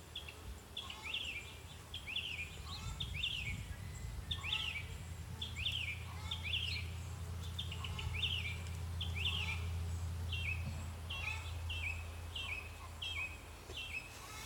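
A songbird calling: a long run of short, repeated high chirps, about one or two a second, over the steady low hum of honeybees around an open hive.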